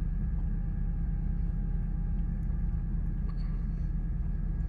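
Steady low rumble of a running vehicle with a faint steady hum, and a faint tick about three seconds in.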